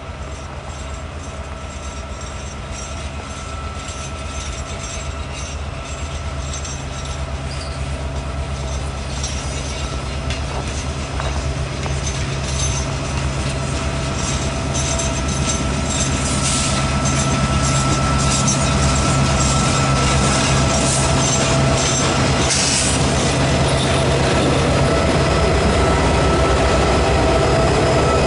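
Slow-moving freight train led by EMD diesel locomotives (a GP15T and a GP38-2). The diesels make a steady low drone while the wheels squeal and click on the rails, and the whole sound grows steadily louder as the train draws near.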